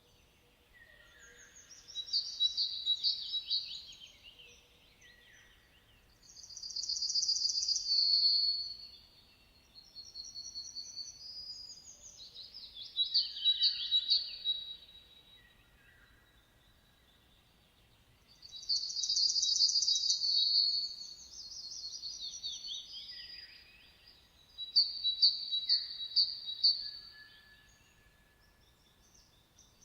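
A songbird singing in short, loud phrases of rapid high trills and falling sweeps, about seven phrases each a few seconds long, with short pauses between them.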